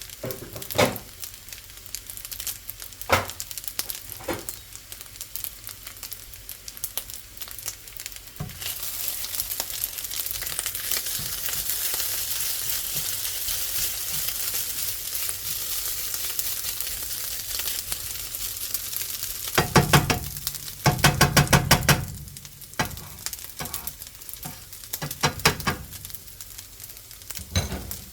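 Fried rice with sausage and vegetables sizzling in a pan while a spatula stirs it. A few knocks come early on, the sizzle swells about eight seconds in, and around twenty seconds in there are runs of quick, loud scraping strokes against the pan.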